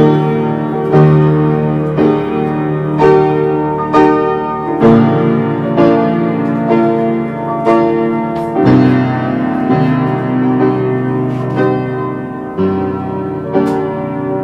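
Solo piano playing sustained chords, roughly one a second, with the bass changing every few seconds.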